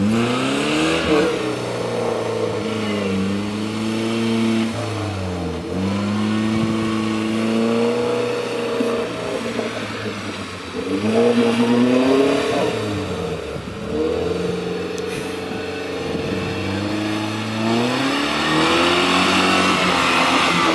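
Off-road 4x4's engine revving under load, its pitch climbing and dropping back in four surges.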